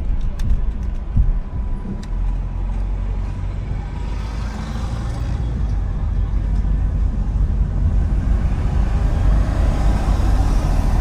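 Car driving along a road: a steady low rumble of engine and road noise, with a few light ticks in the first couple of seconds, growing slightly louder toward the end.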